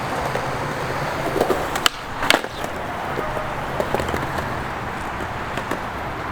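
Skateboard wheels rolling on concrete, with two sharp clacks of the board about two seconds in and a few lighter knocks later.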